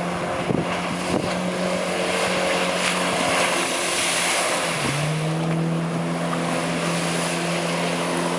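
Jet ski's Suzuki 1.4-litre four-stroke engine running steadily over a loud rushing noise. Its pitch dips briefly about five seconds in, then holds a little lower.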